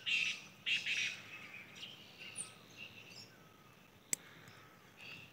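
Birds calling outdoors in the morning: a few short, harsh calls in the first second or so, then fainter chirps. A single sharp click comes about four seconds in.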